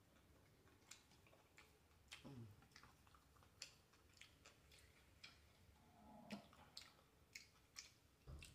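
Faint chewing: soft, irregular wet clicks of a mouth eating.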